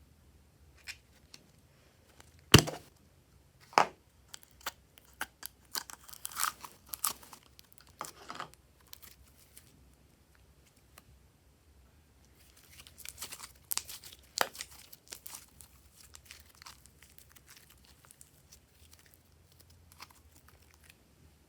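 Slime being handled and stretched by hand, giving irregular sticky crackles, clicks and pops in clusters, with the sharpest pop about two and a half seconds in.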